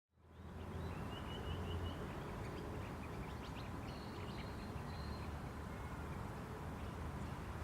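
Wetland ambience: birds calling faintly with short chirps and a wavering call over a steady low rumble of background noise.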